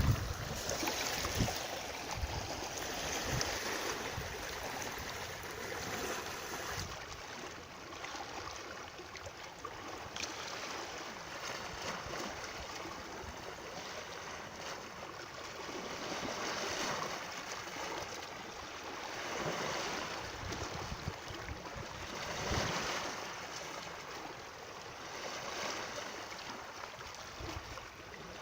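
Running water: a steady rushing that swells and eases every few seconds.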